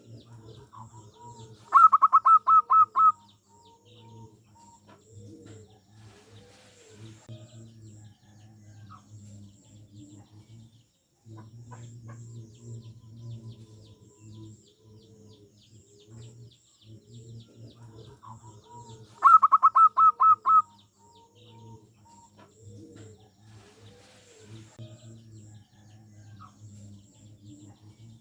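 Zebra dove (perkutut) singing: two loud bouts of rapid staccato cooing, about a second and a half each and some seventeen seconds apart, over quieter lower bird calls repeating throughout.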